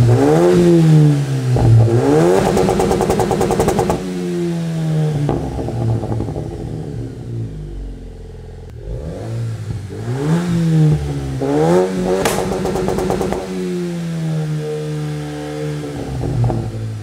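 Ram Rampage R/T's 2.0-litre turbocharged Hurricane 4 four-cylinder petrol engine being revved, in two groups of blips. The pitch climbs and falls back toward idle between them, and there is one short sharp click about twelve seconds in.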